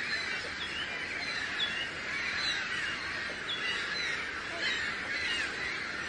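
A flock of birds calling, with many short overlapping calls and chirps in a dense, steady chatter.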